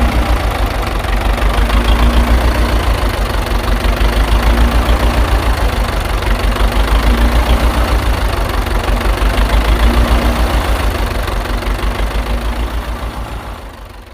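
A machine's motor running steadily with a rapid low throb, fading away near the end.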